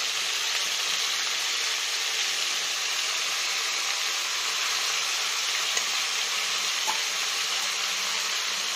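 Crab pieces frying in hot oil in a steel kadai, a steady sizzle, with a couple of faint clicks from a steel spoon near the end.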